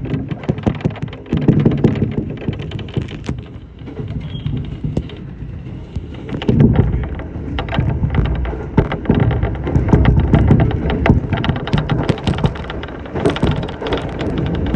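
Shinano Railway SR1 series electric train running along the line, heard from inside the car: a continuous low rumble with a dense stream of sharp rattling clicks, swelling louder twice.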